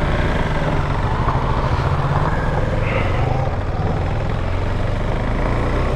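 KTM 390 Adventure's single-cylinder engine running steadily at low road speed, with an even hiss of wind and road noise over it.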